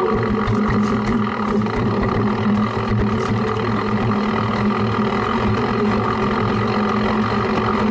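An engine running steadily, a constant low hum that does not change in pitch or level.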